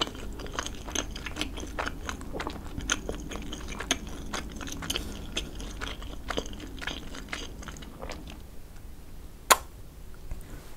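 Close-miked chewing of a mouthful of food, with many small wet mouth clicks and crackles for about eight seconds. A single sharp click follows about nine and a half seconds in.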